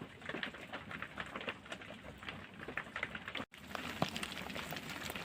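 Steady light rain pattering in many small irregular drops, cutting out for an instant a little past halfway.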